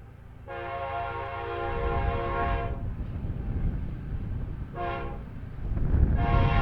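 BNSF freight locomotive's multi-chime air horn sounding a long blast, then a short blast, then another long blast starting near the end. Under it runs the low rumble of the passing train.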